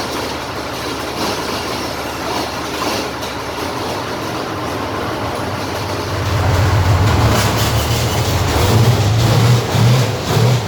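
Armoured recovery vehicle's engine running with a steady, loud, rumbling noise and a low hum that grows louder about six seconds in.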